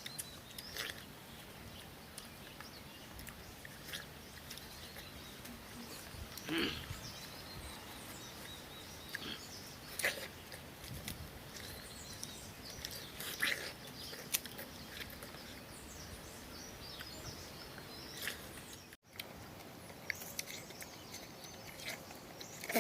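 People biting into and chewing watermelon, with scattered short wet bites and smacks.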